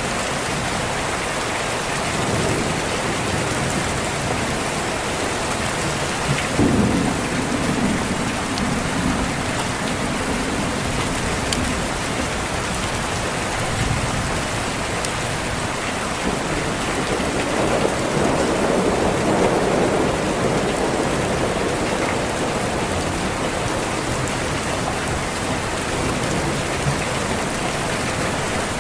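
Steady heavy rain with two rolls of thunder. The first starts with a sudden crack about six seconds in and rumbles on low for a few seconds; the second is a longer, softer swell past the middle.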